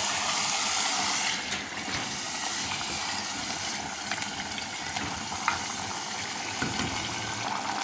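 Marinated mutton and onions sizzling in hot mustard oil in a clay pot while being stirred with a wooden spoon: a steady frying hiss, a little louder in the first second or so, as the meat is browned.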